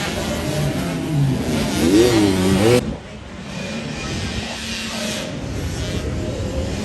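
Motocross dirt bike engines revving, the pitch rising and falling with the throttle. About three seconds in, the sound cuts off suddenly to a quieter, steadier engine noise.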